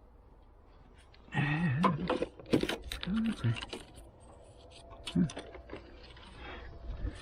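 Clicks and rattles of hand tools and metal parts being worked, mixed with a man's short strained grunts and mumbles. It starts about a second in.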